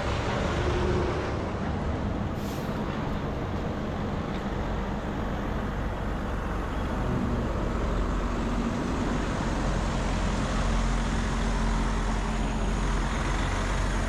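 Heavy diesel equipment running steadily, a continuous low engine drone.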